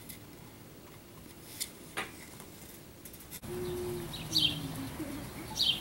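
A few faint clicks, then a sudden switch to outdoor sound: a steady low hum, with a wild bird chirping twice in short, falling chirps.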